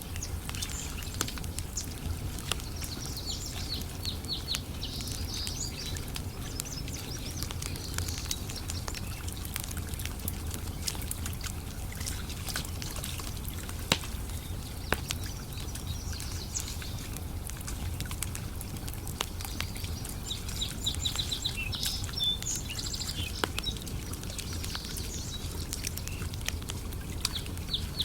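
Wood campfire crackling with frequent sharp pops over a low steady rumble, with birds chirping twice in bursts.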